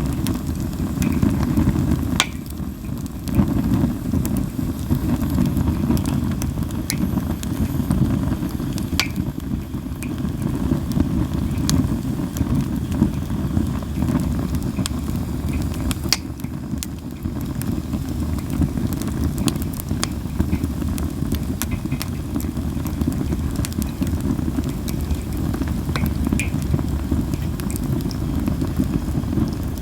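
Japanese linden (shinanoki) firewood burning in a campfire: a steady low rumble with scattered sharp crackles and pops, a few seconds apart.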